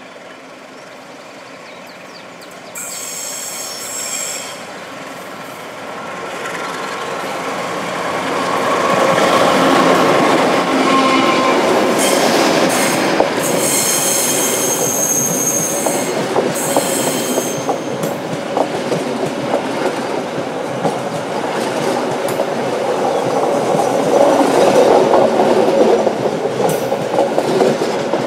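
Diesel-hauled passenger train passing close on curved track: the rumble and clatter of the coaches' wheels on the rails builds up after a few seconds and stays loud. High-pitched wheel squeal comes in briefly near the start and again for several seconds in the middle.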